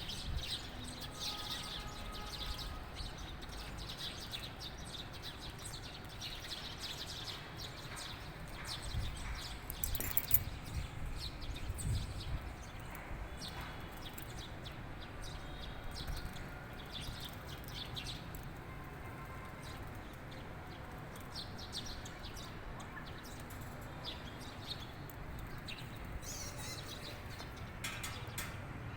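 Small birds chirping and twittering in short, repeated calls over a steady low rumble, with a few sharp clicks about a third of the way through.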